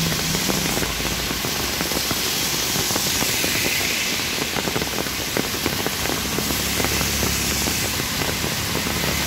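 Heavy rain pouring onto a wet road: a steady, dense hiss made of countless raindrop patters. Vehicles drive through the water, with a low engine hum at the start and again near the end.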